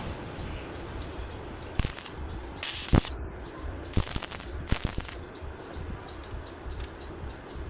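Homemade hand-cranked rotary drilling machine at work, clicking and rattling, with four short bursts of hiss between about two and five seconds in.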